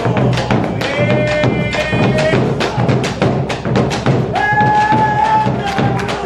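Argentine folk music played live: a driving rhythm of sharp percussive strikes under a melody with long held notes.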